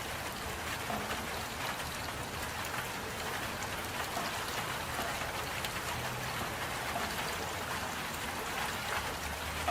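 Steady rainfall: an even hiss of rain with fine, scattered drop ticks.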